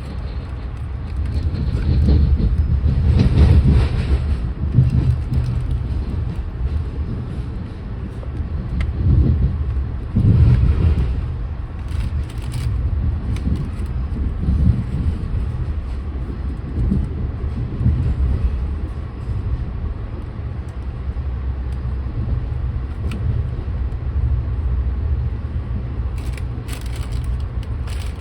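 Steady low rumble of a moving vehicle's running noise, swelling louder about three and ten seconds in, with a few sharp clicks and rattles near the end.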